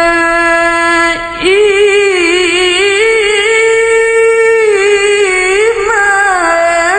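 Male qari's voice in melodic Quran recitation (tilawah), drawing out one long, ornamented note with wavering turns. A short breath break about a second in, after which the voice comes back on a higher held note.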